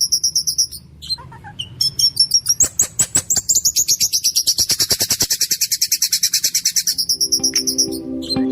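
Songbird singing a rapid, harsh roll of repeated high notes, about ten a second, like machine-gun fire, broken by a short pause about a second in. Soft music comes in near the end.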